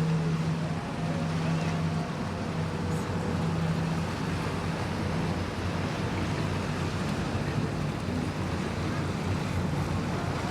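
Boat engine running with a steady low drone over waves and wind on the microphone; the drone is strongest in the first few seconds, then weakens.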